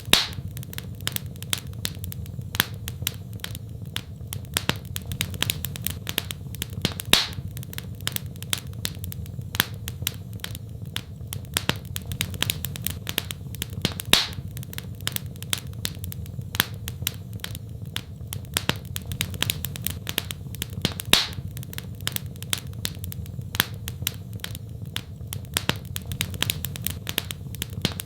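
Wood fire crackling: a constant patter of small crackles, with a sharper pop about every seven seconds, over a steady low hum.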